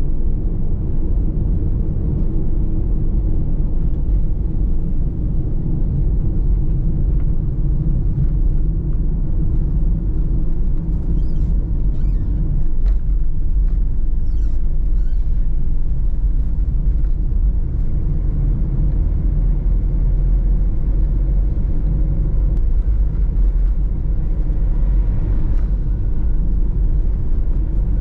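Steady low rumble of engine and road noise inside a moving minivan's cabin.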